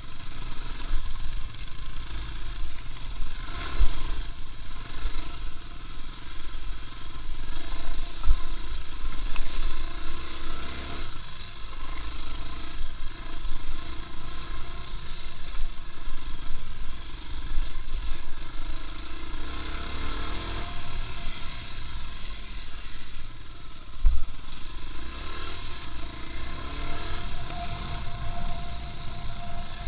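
A motor vehicle driving over rough, rutted ground: steady engine and rumble with rattling, and sharp jolts about 4 seconds in and again near 24 seconds.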